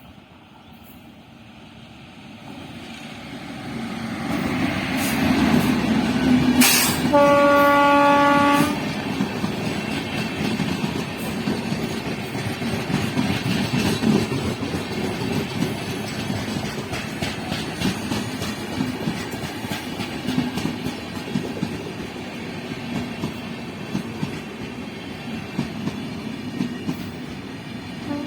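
A train approaches at speed, growing steadily louder, and sounds its horn once, about a second and a half long, as it arrives. It then passes with a continuous rumble and clatter of wheels on the rails.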